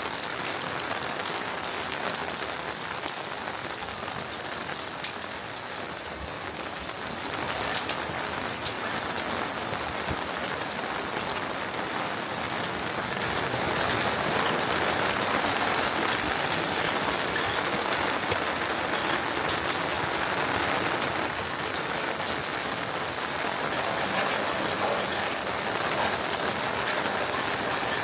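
Steady rain falling, with many individual drops ticking, growing louder about halfway through.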